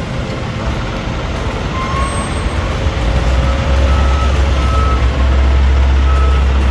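Heavy road vehicle running close by, its deep engine rumble swelling about three seconds in, with a few short high beeps over it.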